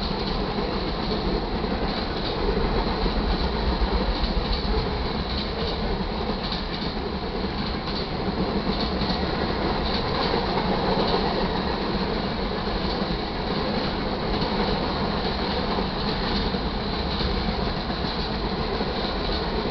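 Freight cars of a manifest train rolling steadily past at close range: steel wheels running over the rails with a continuous rumble and rattle of the cars.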